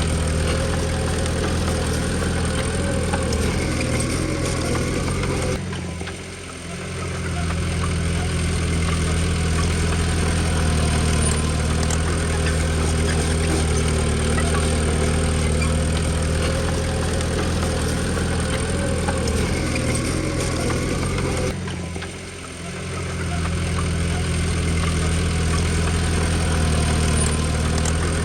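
Komatsu D20P bulldozer's diesel engine running steadily. The sound drops away briefly twice, about 6 and 22 seconds in, then returns.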